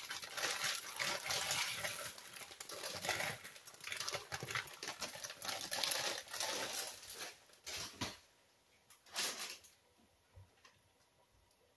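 Plastic bag of dry extra-wide egg noodles rustling and crinkling as the noodles are shaken out, for about eight seconds, then one more short rustle.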